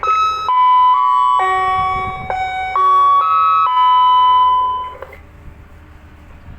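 An electronic chime plays a melody of about nine notes, stepping up and down in pitch, for about five seconds and then stops, over a steady low rumble of engine and wind.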